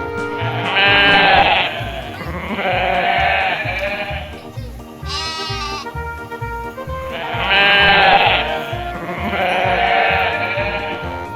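Background music with a steady beat, over five drawn-out, wavering bleats repeating about every two seconds.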